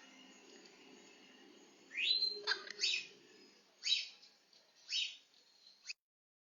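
Pet parrots giving a handful of short chirps and squeaks, the first a rising squeak about two seconds in, spaced roughly a second apart; the sound cuts out abruptly near the end.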